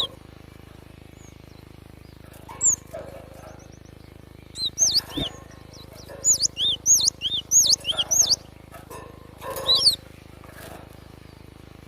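Cinereous tit (gelatik batu) calling in short phrases of quick, high, arched whistled notes. There is one brief call early, a run of repeated notes through the middle, and another short burst near the end.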